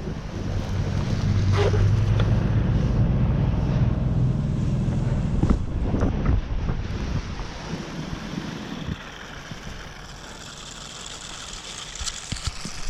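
Snowboard scraping and chattering over icy snow, with wind buffeting the microphone; the rumble eases off about nine seconds in, as the ride slows.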